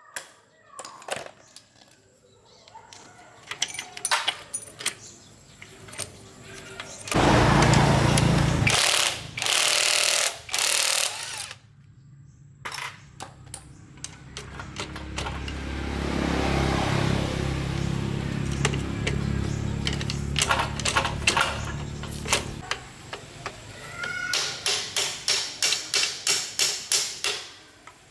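Workshop tool noise: a power tool runs in short loud bursts, then steadily for several seconds, and near the end comes a fast series of sharp metallic impacts, about four a second.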